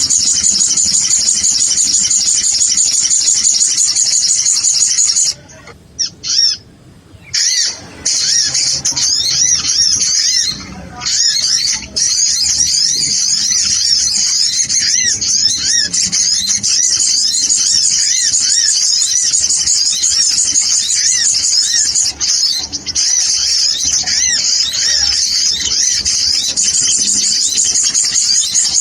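Lure-call recording of sunbirds (sogon, locally called kolibri): a dense, continuous chatter of rapid high-pitched chirps from several overlapping birds, used to draw wild birds in for trapping. The chatter drops out briefly twice, about six seconds in and again around eleven seconds.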